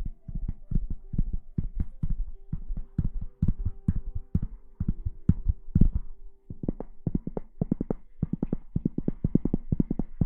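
Rapid soft thumps, about four to six a second, quickening after the middle, over a faint steady hum.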